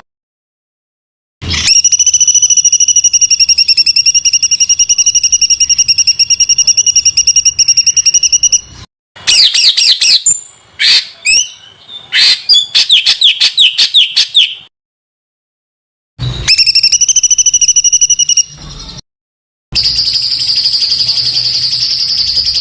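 A songbird singing long, very rapid rattling trills, the rough, tightly packed 'tembakan' phrases used to tutor cage birds. A stretch of varied quick chirps and whistles comes in the middle, and the recording segments are separated by short gaps of silence.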